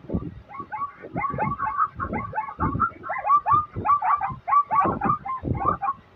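Zebra barking call: a fast run of short, high yelping notes, each dropping in pitch, several a second.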